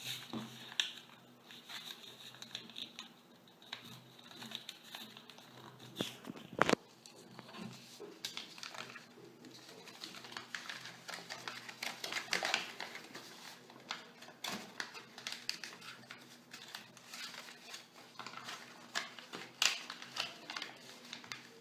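Paper being folded and creased by hand: irregular crinkling and rustling of the sheet, with a sharper snap about a third of the way in.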